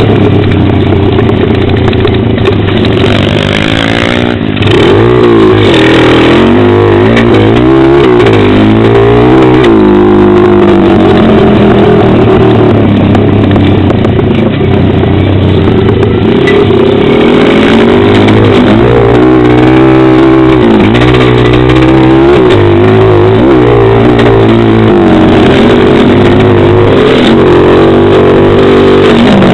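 Pit bike engine being ridden hard, its pitch repeatedly rising and falling as the throttle opens and closes. Loud throughout.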